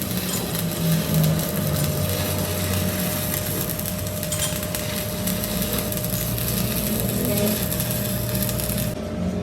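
Steady power-tool noise of metal being worked, a harsh even hiss over a low motor hum, which changes abruptly near the end.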